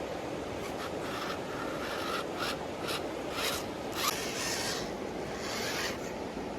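Radio-controlled 4x4 car driving over the dirt track: a steady low rush with short, irregular rasping scrapes, about ten in all.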